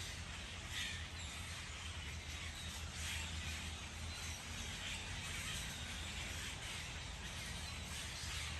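Steady outdoor background noise with a low hum, and a few faint bird calls, one about a second in and one about three seconds in.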